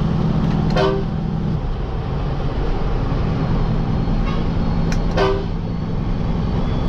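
A truck engine running steadily at low revs, with two short horn toots, one about a second in and another about five seconds in.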